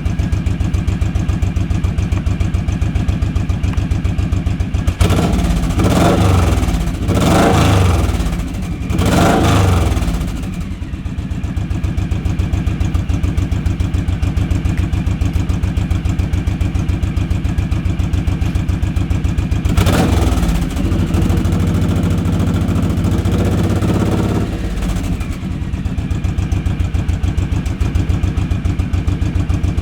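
2008 Suzuki C109R's big V-twin idling with a loud, even lope through its exhaust, then revved three times in quick succession about five to ten seconds in, and blipped once more about twenty seconds in, with a smaller blip a few seconds later.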